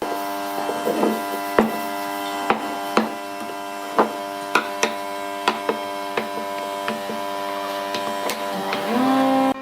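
Wood lathe running with a steady electric hum, with about a dozen irregular sharp wooden clicks and knocks; shortly before the end the hum rises in pitch.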